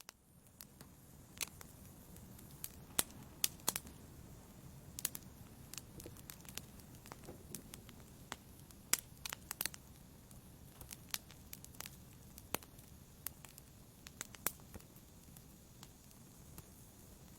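Wood fire burning in a fireplace and crackling, cutting in suddenly out of silence: irregular sharp pops and snaps, some louder than others, over a steady low rush of flame.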